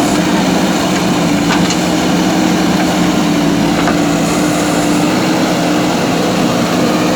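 A motor running steadily, a constant-pitched hum over a wide hiss, with no change in speed.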